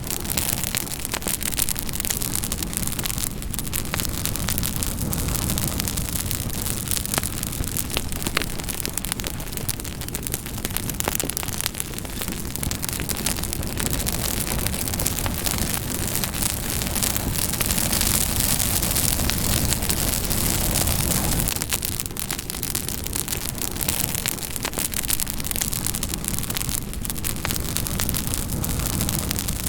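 Campfire crackling: dense, irregular pops and snaps over a steady low rumble and hiss of burning wood, growing a little louder and brighter about two-thirds of the way through.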